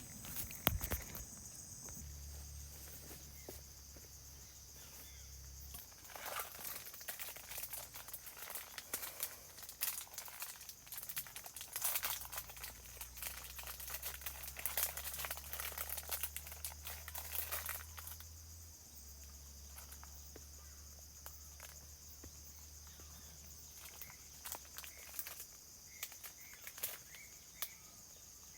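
Insects, likely crickets, chirring steadily in a high band. Close rustling and crackling comes in about six seconds in and lasts roughly twelve seconds.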